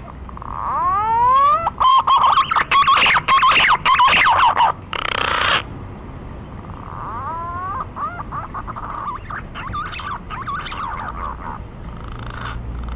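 Green pigeon (punai) lure call: a series of rising whistled glides breaking into a loud, rapid warbling run lasting about five seconds, followed by a softer repeat of the same phrase.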